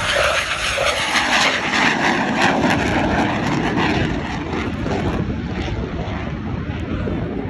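Aircraft engine noise as an airplane flies by, a loud steady rush that grows duller and a little quieter toward the end.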